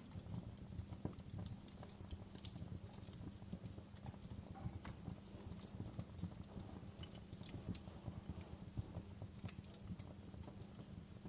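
Wood fire crackling in a fireplace: irregular small snaps and pops over a steady low rumble, with a couple of sharper pops.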